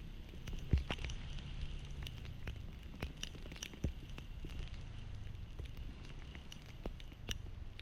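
Rain pattering, with irregular sharp ticks of drops striking close by over a low, steady rumble.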